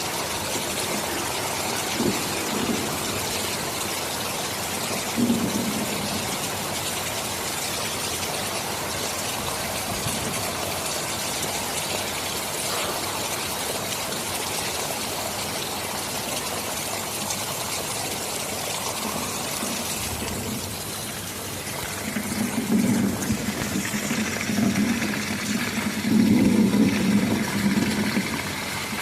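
Steady heavy rain hiss with low rolling thunder underneath: a couple of short rumbles early, then a longer, louder rumble of thunder during the last several seconds.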